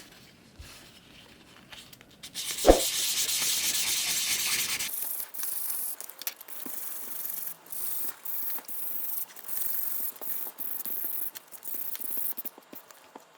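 800-grit sandpaper rubbing over a clear plastic model part in short back-and-forth strokes, a dry rasping hiss. A single thump comes a little under three seconds in, the loudest sound here.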